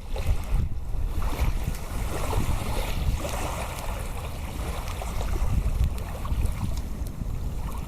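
Wind buffeting the microphone: a steady low rumble with a rushing hiss above it.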